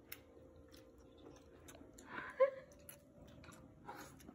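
Quiet chewing and small wet clicks as a child eats cooked king crab leg meat, with one brief louder sound about halfway.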